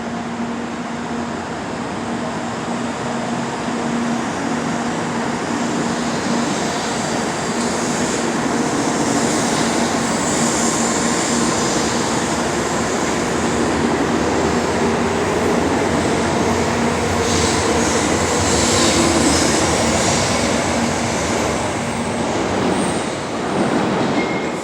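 A train moving along a station platform: steady running noise with a hum, building over the first several seconds, with high wheel squeal twice, around ten seconds in and again around eighteen seconds in, and falling away at the very end.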